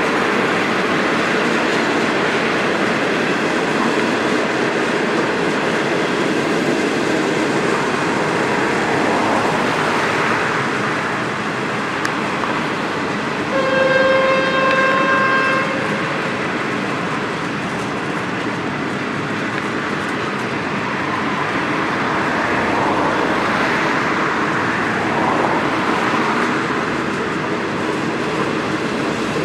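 A train running past on the rails with a steady rumble and wheel noise. Near the middle, a single train horn blast sounds, held for about two seconds.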